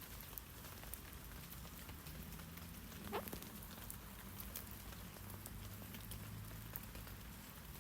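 Light rain pattering on tree leaves: a soft, even hiss scattered with many small drip ticks, and one louder sharp drip or tap about three seconds in.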